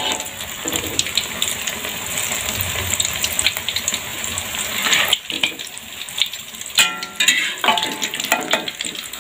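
Noodle and egg omelet sizzling in hot oil in a wok, with a metal spatula scraping and tapping the pan. The sizzle is steady for about five seconds, then thins out.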